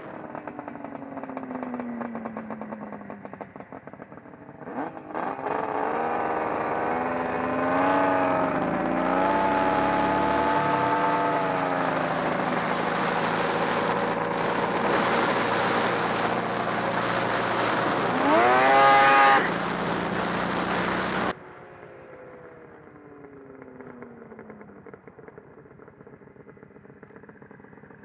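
Arctic Cat Thundercat 900 three-cylinder two-stroke snowmobile engine in a custom motorcycle, running and revving, its pitch rising and falling several times with one sharp rev-up. The loud engine note then cuts off suddenly, and a fainter engine sound with a falling pitch follows.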